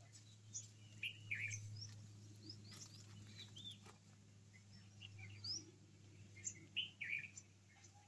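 Birds chirping and calling: short high chirps and whistled notes come every second or so, over a faint steady low hum.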